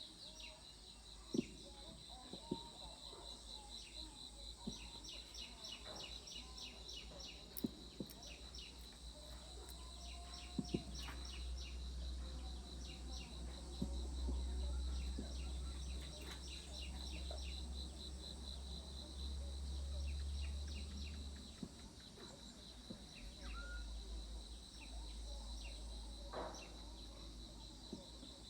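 Outdoor birdsong: runs of quick, high chirps repeating many times a second over a steady high insect buzz, with scattered clicks. A low rumble builds from about twelve seconds in and drops out near twenty-one seconds.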